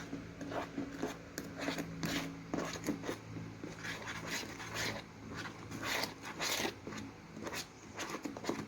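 A spoon stirring slime made of clear glue, glitter and star sequins in a small plate, with irregular scraping and clicking strokes against the dish.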